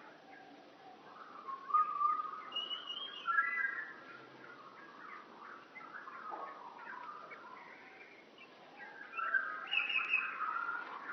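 Birds calling and chirping in short whistled phrases, in bouts that are loudest about two seconds in and again near the end.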